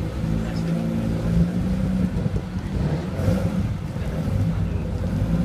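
Classic saloon car's engine running at low revs as the car pulls away slowly, its pitch rising and falling slightly with light throttle.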